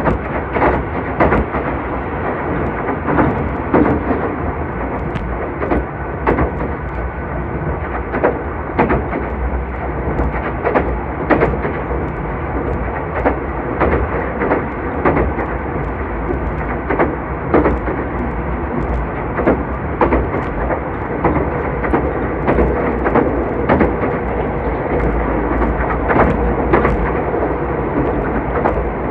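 Meitetsu 2000 series μSKY electric train running: a steady rumble with frequent irregular clicks and knocks from the wheels on the rails.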